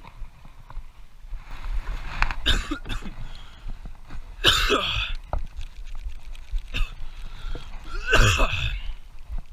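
A person's voice making three short, harsh non-speech sounds, like coughing, spaced a few seconds apart over a low rumble.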